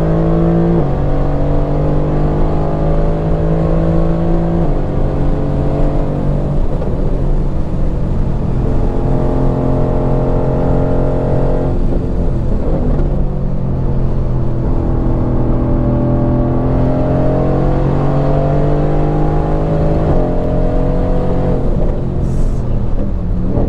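Mercedes-AMG GT R's twin-turbo V8 heard on board at track pace. The engine note holds steady for a few seconds at a time, drops sharply a few times as the driver shifts or lifts, and rises again under throttle.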